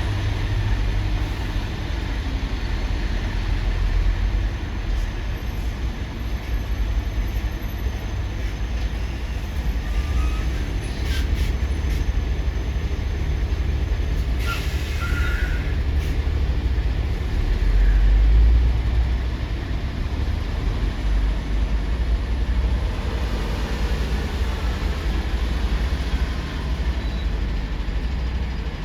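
Steady low rumble of heavy vehicle engines, swelling slightly about eighteen seconds in, with a brief hiss about fifteen seconds in.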